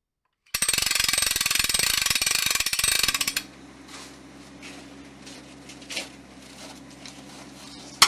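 A loud, fast mechanical rattle of dense clicks for about three seconds, stopping abruptly, followed by a quiet low steady hum with a few faint clicks and one sharp click near the end.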